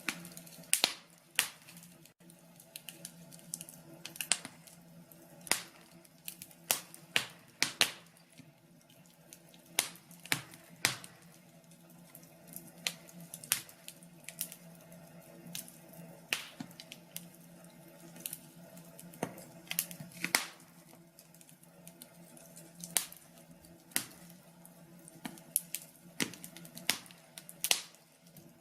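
Wood fire crackling in a fireplace, with sharp pops at irregular intervals over a low, steady background.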